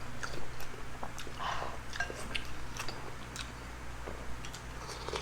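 Close-up eating sounds of chicken tinola being bitten and chewed, with many small wet mouth clicks and smacks scattered through.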